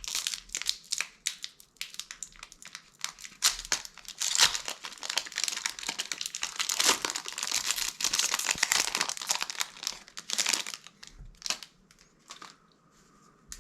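Plastic foil wrapper of a Magic: The Gathering set booster pack crinkling and tearing as it is opened by hand. The dense crackling thins to a few light crackles near the end.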